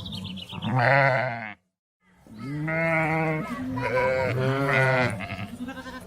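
Sheep bleating: one bleat, a sudden half-second gap of silence about a second and a half in, then a long quavering run of bleats.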